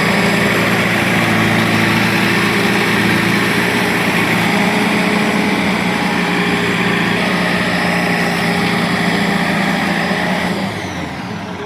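Heavy machine's diesel engine running steadily, its sound dropping off about ten and a half seconds in.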